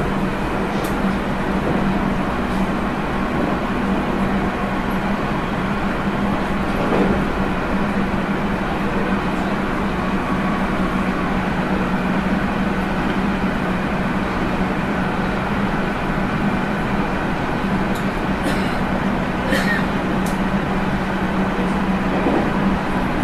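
Running sound inside a JR Central 311 series electric train at speed: a steady rumble of wheels on rail, with the air-conditioning running. A few faint clicks come late on.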